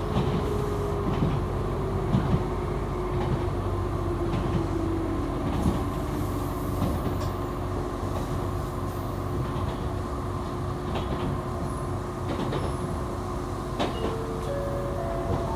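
Echizen Railway local train running, heard from inside the car: a steady rumble of wheels on rails with a few sharp clicks and a whine that slowly falls in pitch. Near the end, a few short tones step upward in pitch.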